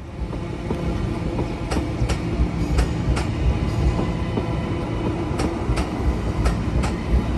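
Queensland Rail suburban train running on the tracks with a steady rumble, its wheels giving sharp, irregular clicks over rail joints and points.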